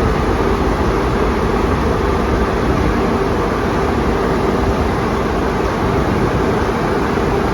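Istobal tunnel car wash machinery running: a steady rushing noise with a constant hum that does not change.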